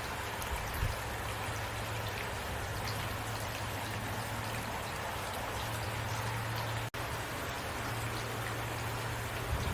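Steady rain falling, an even hiss with a low steady hum underneath. The sound cuts out for an instant about seven seconds in.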